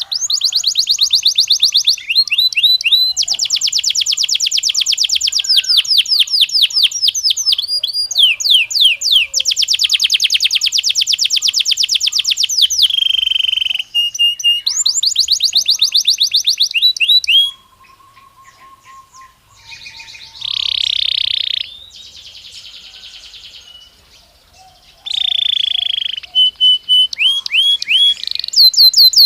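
Belgian canary singing: long trills of rapidly repeated high notes, one phrase after another. About two-thirds of the way through, the song drops to softer, scattered notes with two short buzzy rolls, then the fast trills return near the end.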